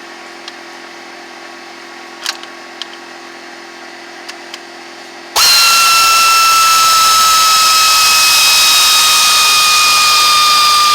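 Power ratchet spinning a bolt out: a few faint tool clicks, then about five seconds in a loud, steady high whine with hiss that runs about six seconds, its pitch sagging slightly.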